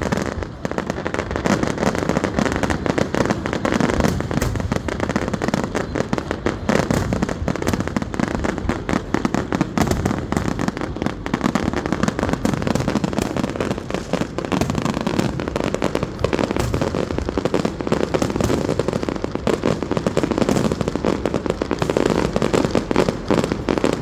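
Fireworks going off in a fast, continuous barrage of bangs and crackles with no pause.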